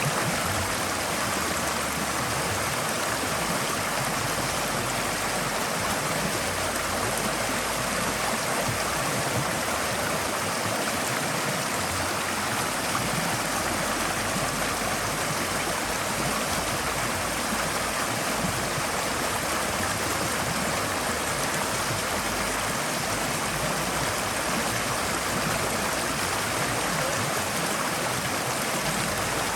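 Forest stream flowing over rocks: a steady rush of water with gurgling and trickling, even in level throughout.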